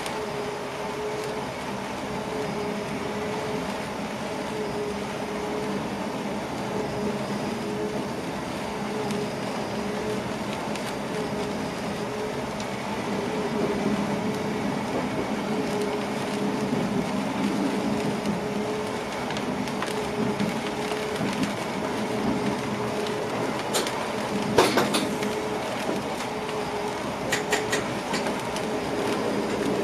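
Passenger train running along the track, heard from inside the driver's cab: a steady rumble with a held hum, and a few sharp clicks near the end.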